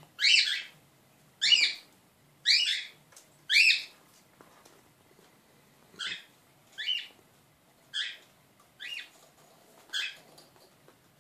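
A pet bird calling repeatedly, nine short calls about a second apart, the first four loud and the rest softer.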